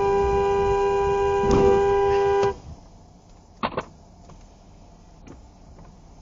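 A car horn held in one long, steady blast that cuts off suddenly about two and a half seconds in. A couple of short knocks follow at a much lower level.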